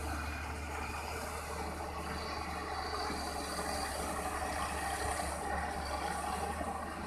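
Heavy earth-moving machine's diesel engine running steadily.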